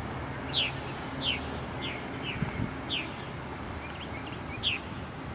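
A bird calling over and over with short, high chirps that fall in pitch, about one or two a second, over a steady low background hum.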